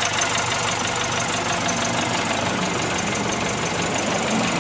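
1959 Mercedes-Benz 190SL's 1.9-litre single-overhead-cam straight-four with twin Solex carburetors idling steadily, with a fast, even ticking.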